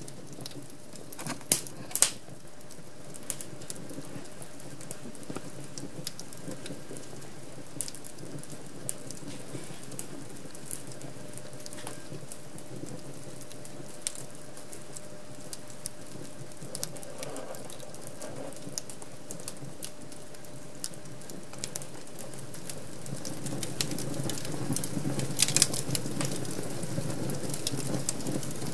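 Wood fire crackling in a fireplace: irregular sharp pops and snaps over a steady soft rush of the flames, with a few loud pops about two seconds in, growing busier and louder near the end.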